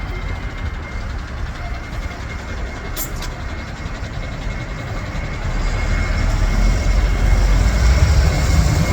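Boeing 737-800's CFM56 jet engines running with a steady high whine over a deep rumble, growing louder from about halfway through as the departure power comes on.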